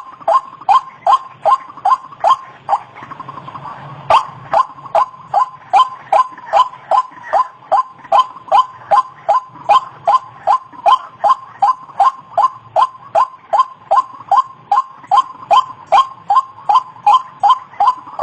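White-breasted waterhen (ruak-ruak) calling: short, downward-sliding notes repeated at about two to three a second, with a pause about three seconds in before the series resumes.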